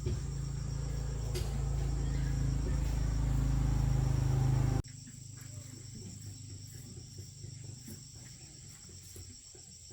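A machine running with a steady low hum that grows slightly louder, then cuts off suddenly about halfway through. Quieter small workshop noises follow, with a faint steady high whine.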